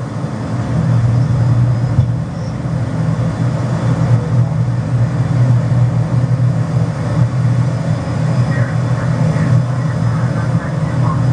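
McDonnell Douglas DC-10 jet airliner's engines running at takeoff power during the initial climb, heard on board as a loud, steady roar with a deep hum.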